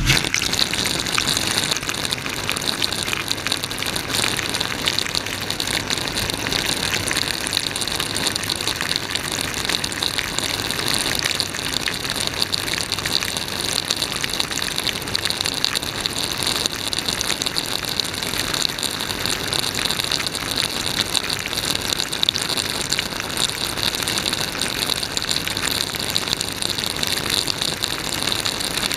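Dishwasher spray arms jetting water during a wash cycle, heard from inside the wash cabinet: a dense, steady rush of spraying water that starts suddenly.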